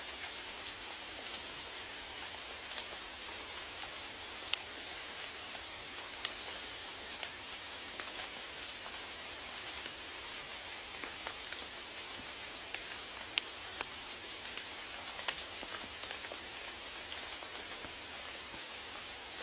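Steady rain falling: an even hiss with a few sharper drop ticks standing out here and there.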